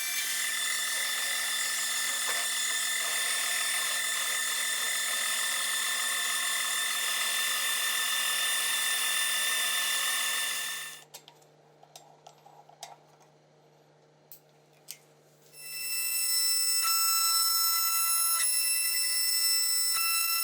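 A power tool running with a steady high-pitched whine, cutting off about eleven seconds in, with a few faint clicks, then starting up again about five seconds later.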